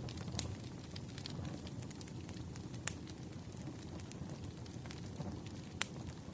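Wood fire crackling: a steady low rumble of burning logs with scattered sharp pops, two louder snaps near the middle and near the end.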